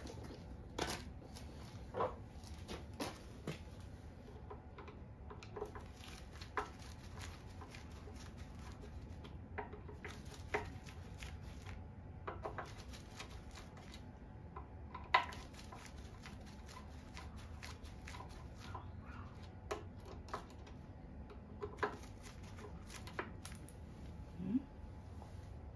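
Faint, irregular clicks and light knocks, a dozen or so spread across the stretch, over a low steady background hum.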